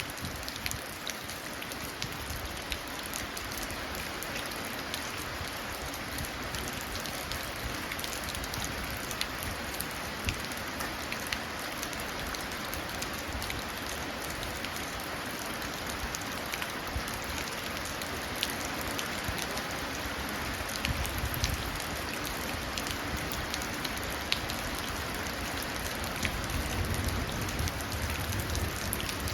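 Steady rain pattering into a puddle, with many individual drops ticking sharply. A low rumble of distant thunder builds near the end.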